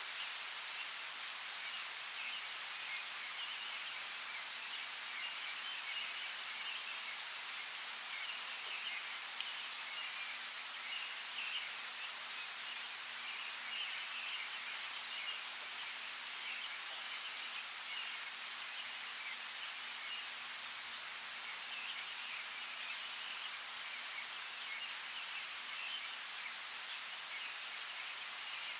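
Steady rain falling, with scattered bird chirps running through it and a few single drops that stand out, the sharpest about eleven seconds in and again near the end.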